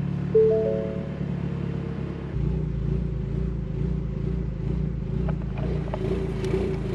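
A short electronic chime of a few notes sounds near the start. About two seconds in, the 2020 Ford Mustang EcoBoost's turbocharged four-cylinder idle grows louder and turns uneven and choppy: the lopey 'ghost cam' idle produced by the tune just flashed.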